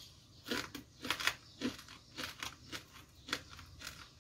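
Crunching as crispy deep-fried tilapia fish bones are bitten and chewed: a run of short, sharp crunches, roughly three a second, uneven in spacing and loudness.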